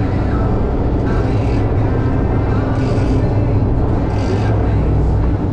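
Boat engine running steadily underway, a constant low drone, with brief rushes of hiss about three and four seconds in.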